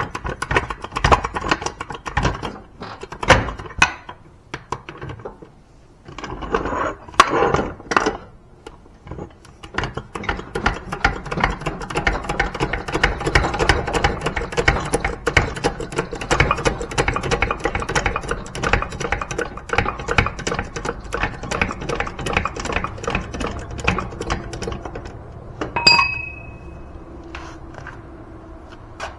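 Hand work on a damaged zero-turn mower, with metal parts knocking and clattering. A run of separate knocks gives way to a long stretch of fast, dense rattling and clicking, and a short high squeak comes near the end.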